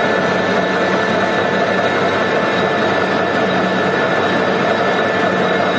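Lathe running steadily: an even machine hum with a few constant whining tones and no change in speed.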